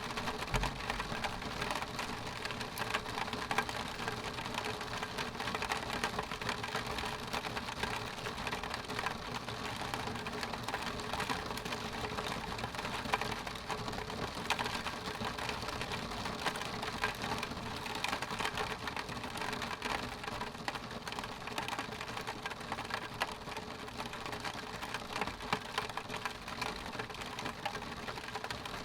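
Rain falling on a glass window pane: a steady, dense stream of fine drop hits on the glass.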